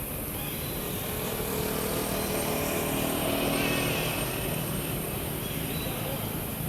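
A motor vehicle passing, growing louder toward the middle and then fading.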